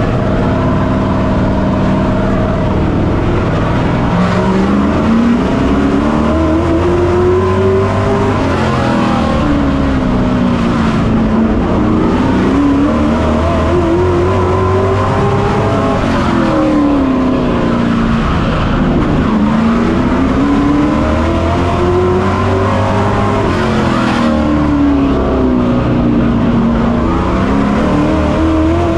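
Race truck's engine heard from on board, its pitch holding steady for the first few seconds, then climbing and dropping again about every seven and a half seconds as it accelerates down the straights and lifts for the turns of a short oval.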